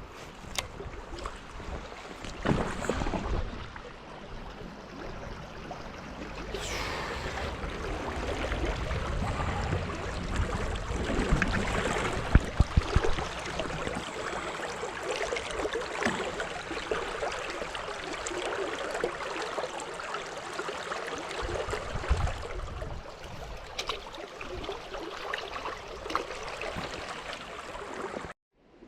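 Small stream running, with scattered knocks and rustles close to the microphone; the sound cuts off suddenly near the end.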